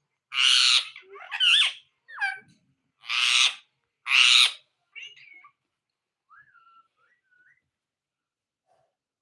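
Pet parrot calling: three loud, harsh squawks in the first half with short gliding chirps between them, then a few soft whistled notes in the second half.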